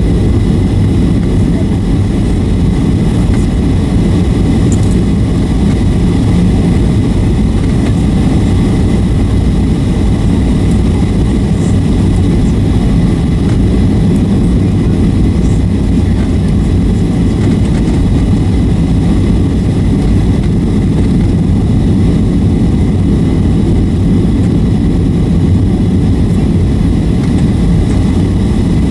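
Steady, even engine and airflow noise inside the cabin of a Boeing 757-300 on its way into Los Angeles, heavy and low, with no sudden thumps or changes.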